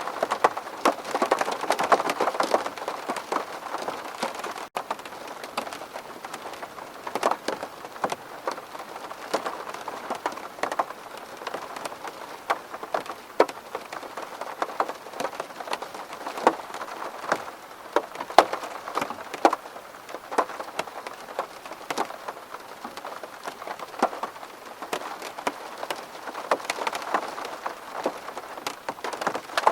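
Rain striking a window pane: a steady wash of rain with many sharp single drop hits, heavier for the first few seconds.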